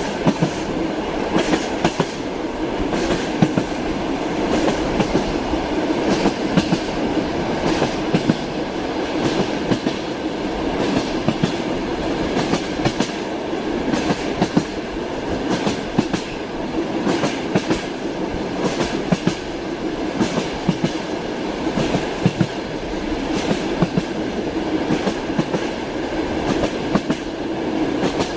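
Passenger train carriage in motion, heard from inside: a steady rumble with the wheels clattering over the rail joints in repeated sharp clicks.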